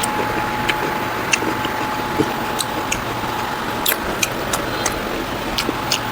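Close-miked eating: irregular wet clicks and smacks of chewing, a few a second, over a steady background hiss with a faint steady whine.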